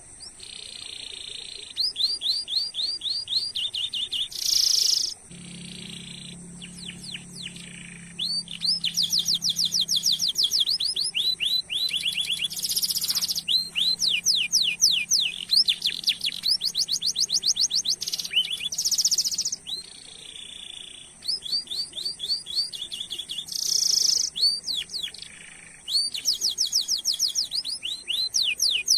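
Domestic canary singing long rolling trills: runs of rapid, repeated falling notes broken by short buzzy notes and brief pauses.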